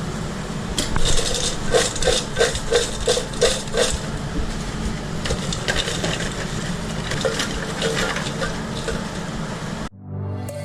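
Food truck kitchen work: a quick run of about eight sharp scraping knocks, roughly three a second, then lighter scattered clatter, over a steady low hum. Music cuts in abruptly near the end.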